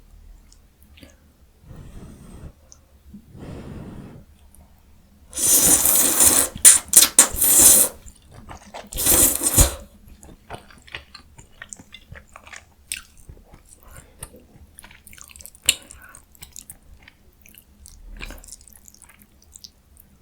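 Close-miked mouth sounds of eating jjajang ramyun noodles and radish kimchi. A loud, noisy stretch of eating comes about five to eight seconds in and again briefly around nine seconds, followed by quieter chewing with small wet clicks.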